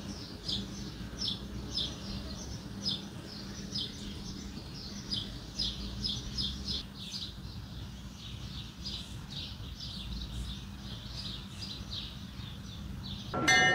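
Small birds chirping again and again, short high chirps about one or two a second, over a low steady hum. A loud bell strikes at the very end.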